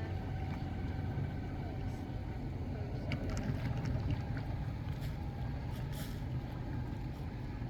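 Steady low outdoor rumble with faint voices of people in the background and a few small clicks.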